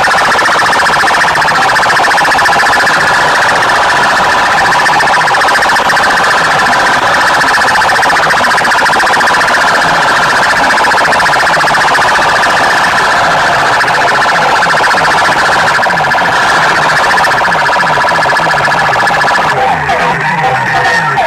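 Competition loudspeaker stack blaring at full volume with a harsh, heavily distorted siren-like wail. The sound is continuous, with a rapid flutter, and breaks up near the end.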